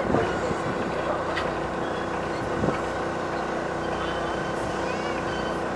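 Electric locomotive hauling passenger coaches slowly through a rail yard: a steady mechanical hum with a few clanks, one near the start and two more about a second apart after that.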